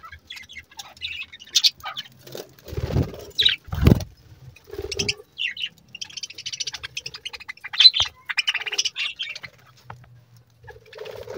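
Budgerigars chirping and chattering, with a stretch of buzzy warbling in the second half. Two low thumps about three and four seconds in.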